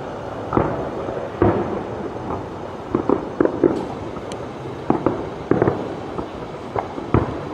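Fireworks going off: about a dozen sharp bangs at irregular intervals, several in quick succession about three seconds in, over a continuous background of more distant bangs and crackle.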